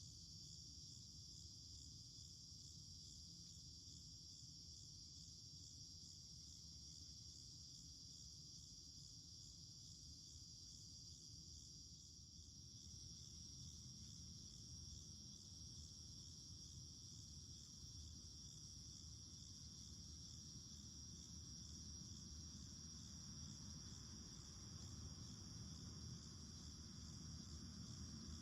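Cicada chorus: a steady, high, buzzing drone that continues unbroken, over a low steady hum.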